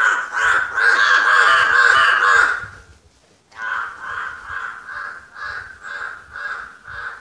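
Loud, harsh bird calls: an unbroken run of calls for nearly three seconds, then after a short pause a string of separate calls about two a second.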